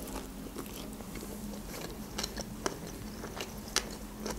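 Close-miked biting and chewing of a sushi roll: moist mouth clicks and smacks, a few each second, with a few louder ones, over a faint steady low hum.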